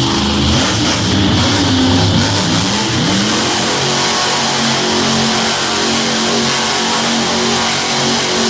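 Monster truck engine revving: its pitch swings up and down for the first few seconds, then holds a steady note. Arena music plays in the mix.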